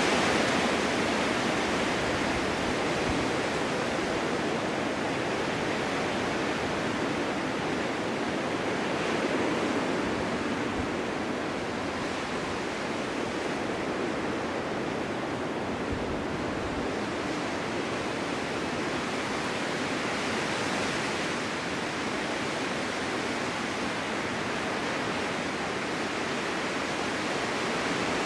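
Snowstorm wind blowing steadily, a continuous rushing noise that swells a little about ten seconds in and again about twenty seconds in.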